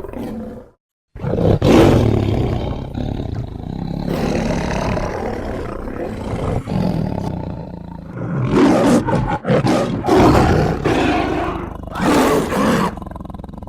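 Big-cat roars forming a creature sound effect built from tiger and sabertooth (Smilodon) recordings. After a brief silence, one long roar begins about a second in, followed by several shorter roars.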